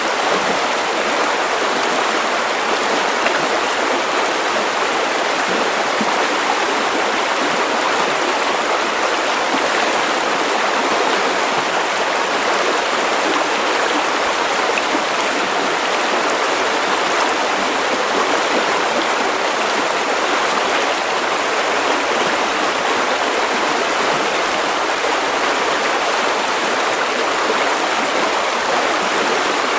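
River water running over stones, a steady rushing burble without pause.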